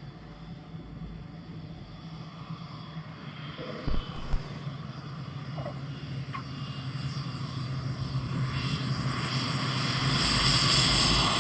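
Kodiak single-engine turboprop aircraft running, its steady engine tone and propeller noise growing louder. Two short knocks about four seconds in.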